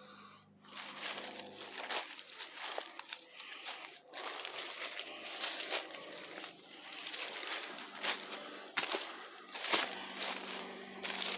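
Footsteps crunching through dry leaf litter and twigs, with irregular crackling steps.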